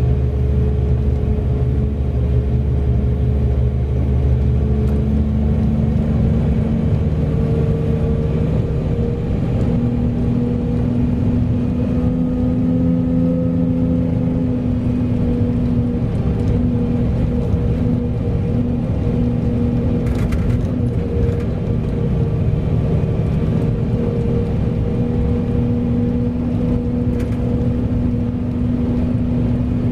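Large mining haul truck's diesel engine running steadily under load, its note shifting a few times as engine speed changes.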